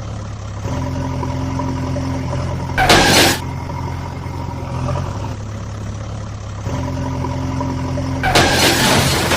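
Vehicle engine running steadily, with a loud burst of hiss like an air brake release about three seconds in and again near the end; the whole pattern repeats like a looped sound effect.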